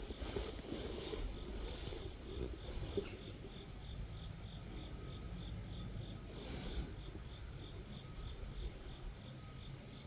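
Insects chirping in an even rhythm, about three chirps a second over a steady high buzz, fading out in the last few seconds.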